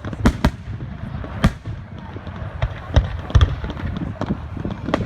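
Fireworks going off: an irregular run of sharp bangs and smaller pops. The loudest bangs come about a third of a second in, at about a second and a half, and around three seconds in.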